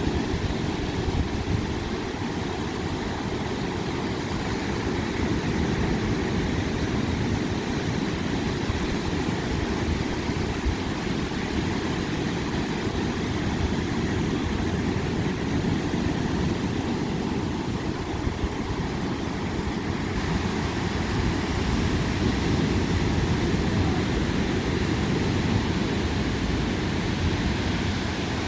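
Ocean surf: a steady, low rumbling wash of waves, with no breaks.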